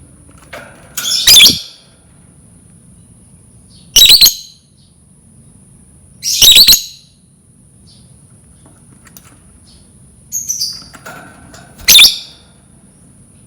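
Lovebird calling in short, shrill chirps, four loud ones a few seconds apart with a softer call just before the last.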